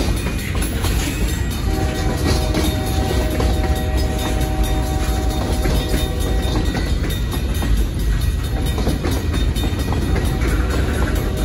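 Freight cars (boxcars and a covered hopper) rolling slowly through a grade crossing, with a steady low rumble and wheels clattering over the rails. A steady whine of several tones joins in from about two seconds in until about six and a half seconds, and again near the end.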